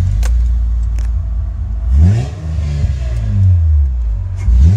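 Supercharged Honda Pilot's J-series V6 engine heard from inside the cabin as the SUV pulls away. The revs climb about two seconds in, fall back as the automatic transmission shifts, and climb again near the end.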